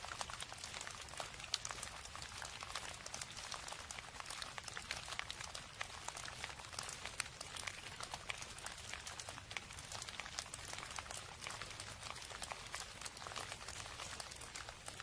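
Steady rain falling, a dense even patter of many small drop impacts without pause.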